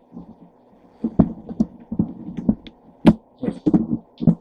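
Cookware being handled on a stovetop: a quick run of irregular knocks, clunks and light clinks over a faint steady hum.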